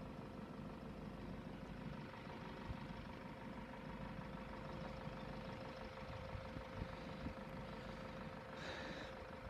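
Faint, steady low rumble of road vehicles idling in a queue at a closed level crossing, with a steady thin tone running through it. A short higher sound stands out near the end.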